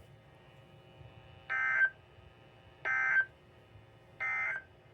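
NOAA Weather Radio SAME end-of-message data signal: three short, identical bursts of warbling digital tones about a second and a half apart, marking the end of the warning message. Faint radio hiss lies between the bursts.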